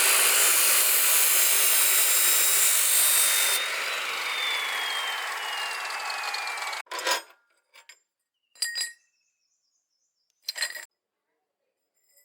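A handheld electric power tool runs under load, a harsh hiss with a thin whine that slides down in pitch over its last few seconds before it stops abruptly. A few short metallic clinks follow.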